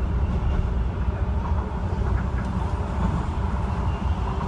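Docklands Light Railway B2K train heard from inside the car: a steady low rumble of the train running on the track.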